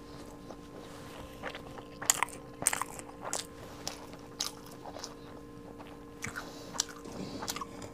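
A person chewing food close to the microphone, with short crisp crunches in two clusters: about two seconds in, and again about six seconds in.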